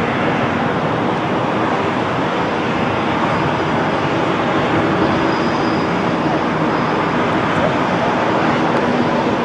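Airliner jet engines running, a loud, steady noise with a faint high whine.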